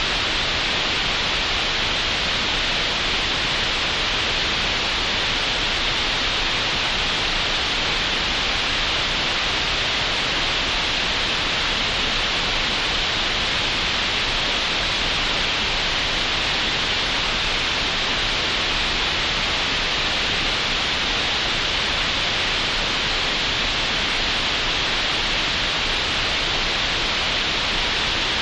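Computer-generated green noise: a steady, unchanging hiss, brightest in the upper-middle range.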